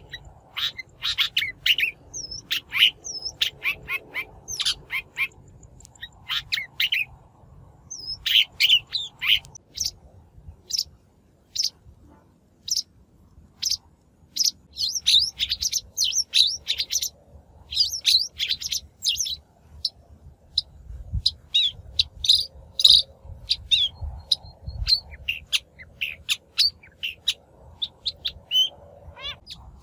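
Long-tailed shrike singing and calling in fast runs of short, high notes, broken by a pause of a few seconds about ten seconds in.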